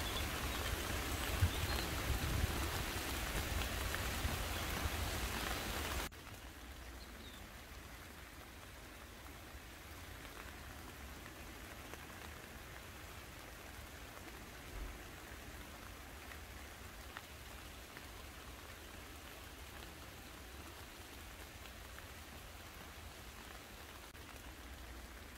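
Steady summer rain falling on garden leaves. It is louder for the first six seconds, then drops suddenly to a quieter, even rain.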